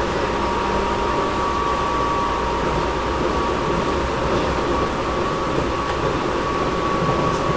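Interior running sound of a Tobu 10000 series electric commuter train between stations, heard from above the main controller: a steady rumble of wheels on rail with a constant high hum, and the air conditioning running.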